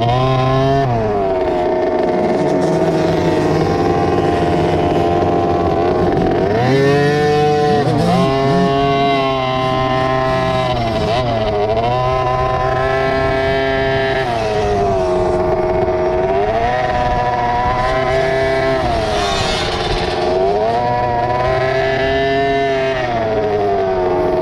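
Small 50cc two-stroke motocross bike engine at race pace, its pitch dropping off and climbing back up every few seconds as it shifts and revs.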